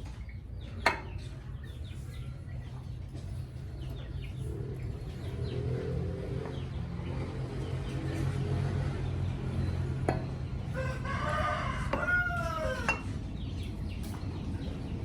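A rooster crows once, about eleven seconds in, over a steady low hum, with a sharp click about a second in.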